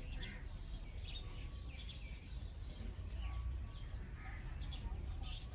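Several small birds chirping in quick, short calls that overlap, over a steady low rumble of background noise.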